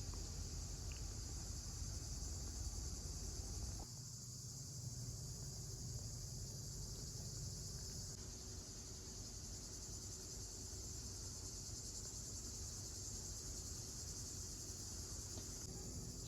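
Steady, high-pitched chorus of crickets chirping. A low rumble sits under it for the first four seconds and stops suddenly.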